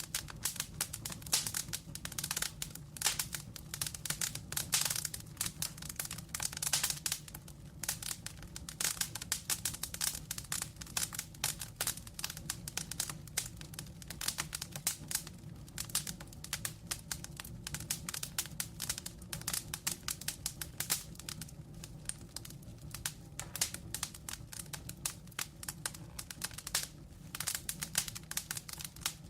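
Burning logs crackling, a dense run of sharp pops and snaps over a low steady roar of flame.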